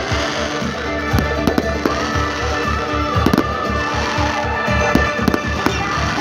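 Fireworks going off in quick irregular bangs and crackles, several a second, over music with held tones.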